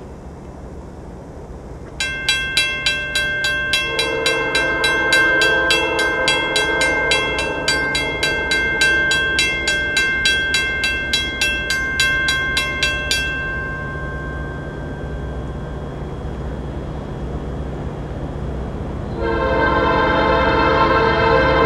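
Railroad grade-crossing bell ringing rapidly, about three strikes a second, from about two seconds in until about thirteen seconds. A Canadian Pacific locomotive's air horn sounds a long blast over the bell, then a louder blast starts near the end, over the low rumble of the train.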